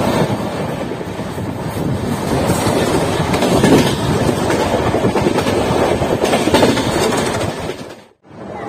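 LHB passenger coach running at speed on the rails, heard from its open doorway: the steady rumble and clatter of wheels on track. The sound fades out about eight seconds in.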